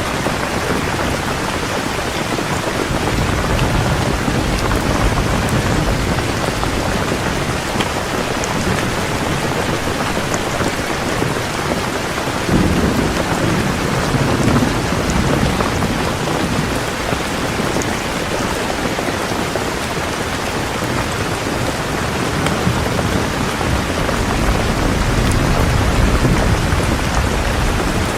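Heavy rain pouring steadily, with low rumbles of distant thunder swelling up about a third of the way in and again near the end.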